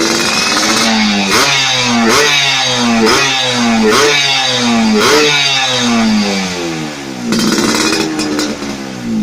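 Engine revved in quick repeated blips, about once a second, each rise in pitch sliding back down before the next.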